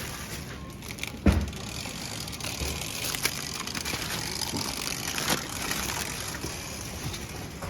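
Rustling and knocking of groceries being handled, with one sharp thump about a second in and a few lighter clicks, over a steady background hiss.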